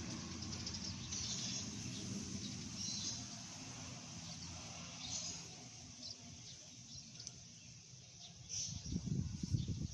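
Birds chirping in short, high calls over the fading hum of a vehicle that has just passed. A gusty low rumble starts near the end.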